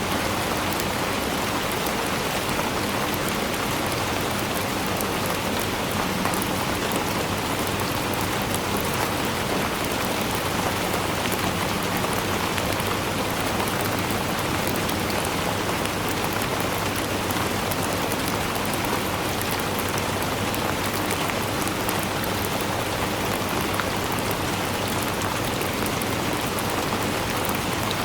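Steady, even rainfall with drops pattering on a surface.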